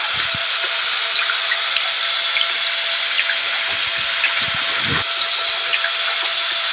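A vacuum cleaner's motor running steadily, mixed with rain: a constant loud hiss with a few steady whining tones through it.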